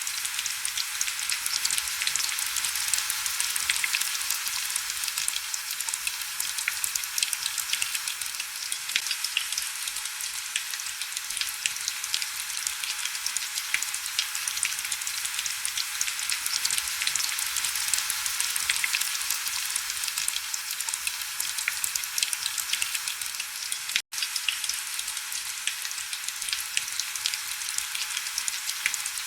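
Heavy rain: a dense, steady crackle of drops, thin and hissy with almost no low end. It cuts out for a split second near the end.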